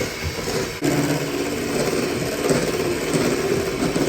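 Electric hand mixer running, beating egg whites with sugar into a fluffy meringue; its motor hum steps up sharply a little under a second in, then holds steady.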